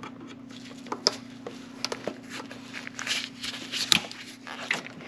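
Scattered light clicks and taps of hand tools working on parts in an engine bay, the sharpest about a second in and near four seconds, over a steady low hum.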